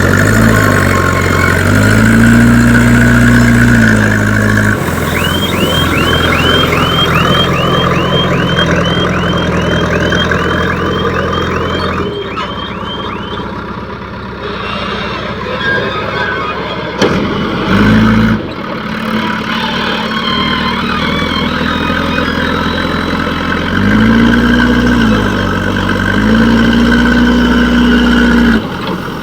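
Heavy diesel engine running and revving up several times under load. A reversing alarm beeps about three times a second for several seconds in the first half.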